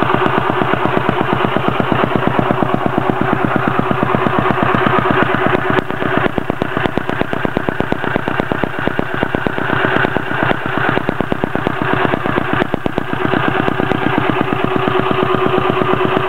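1914 James Model No. 6 'Big Single' motorcycle's 600 cc single-cylinder four-stroke engine running on a test after restoration, a rapid, even beat of firing strokes.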